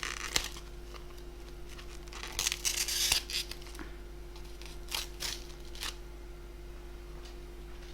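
Plastic food-delivery packaging being handled, crinkling and tearing in short spells, the longest about two to three seconds in, over a faint steady hum.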